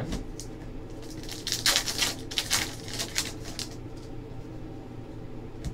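Trading cards being flipped through and shuffled by hand: a run of quick, light clicks and rustles, thickest in the middle, over a steady low hum.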